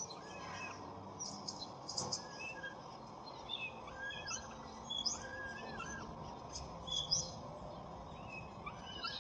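Birds chirping and calling repeatedly, many short notes over a steady outdoor background hiss.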